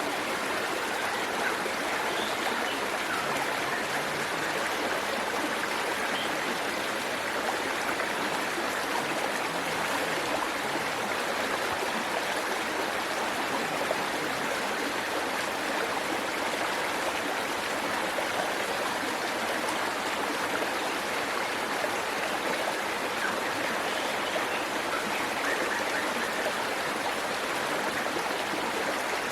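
Waterfall rushing and splashing steadily, an even hiss of falling water that holds unchanged throughout.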